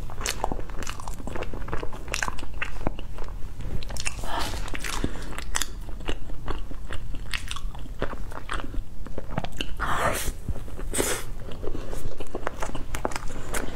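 Chewing and biting a baked pastry with a golden crust and soft purple filling: a steady run of wet mouth clicks and small crunches, with louder crunching bites about four and ten seconds in.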